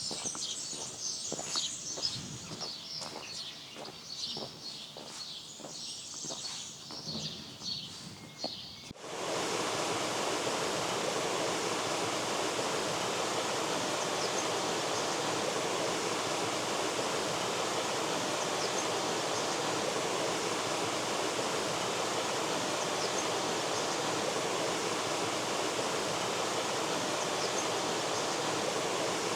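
Small birds chirping, with regular footsteps, for about nine seconds. Then an abrupt change to the steady, louder rush of river water running on, the Weiss river flowing through the village.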